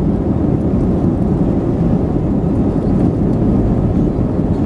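Steady jet engine and airflow noise inside the cabin of an Airbus A321 with CFM56-5B engines, a loud, even rumble with no change in level.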